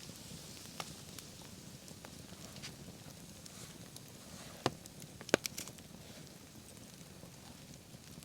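Campfire burning, with a steady low rush and scattered crackles; a few sharp pops come in a cluster about five seconds in.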